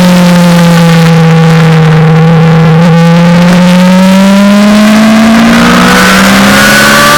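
Suzuki GSX-R600's inline-four engine heard onboard at track speed, very loud, its pitch dipping slightly then climbing steadily as it pulls under throttle. Near the end a second rising engine tone joins it, with more wind rush.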